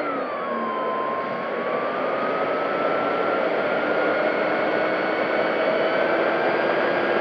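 Electric motor and propeller of an FMS P-40B Warhawk 1400mm RC plane whining under heavy wind rush, heard from a camera on board. The whine drops in pitch during the first second, then slowly climbs again.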